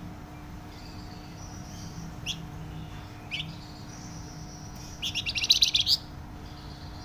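Flamboyan songbird singing: soft high whistles and two sharp falling notes, then a loud, rapid trill of closely spaced notes about five seconds in. It is the loud, tightly packed song that keepers value in a bird in full song.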